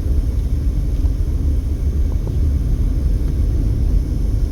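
Steady low rumble of a car driving on a paved road, heard from inside the cabin: tyre and road noise with the engine's drone.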